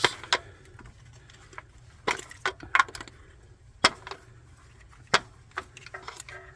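Spark plug wires being pulled off a Honda CR-V's engine: irregular sharp clicks and knocks of the plug boots and hands on the engine parts, several seconds apart at most.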